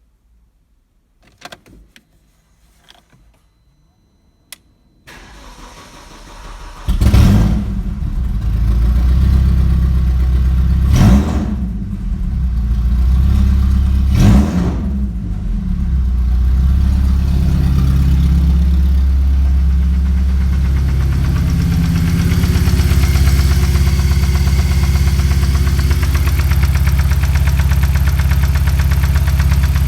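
BMW N42B20A 2.0-litre four-cylinder petrol engine from an E46 being started. After a few faint clicks, the starter cranks for about two seconds and the engine catches with a flare of revs about seven seconds in. It is revved briefly twice, then settles into a steady idle.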